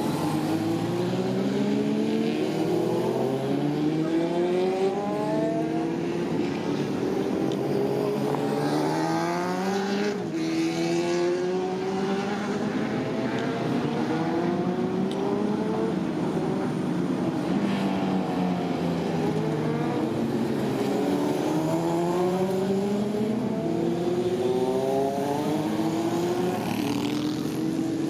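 Honda VFR400R (NC30) V4 engine in a VF400F race bike running hard on track. The pitch climbs through the gears, dropping back at each shift, falls away for a few seconds mid-way as the bike slows, then climbs through the gears again.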